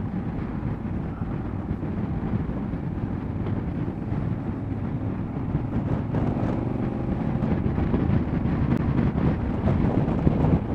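Motorcycle engine running at road speed with steady wind noise on the rider's microphone. The engine note rises briefly about six seconds in.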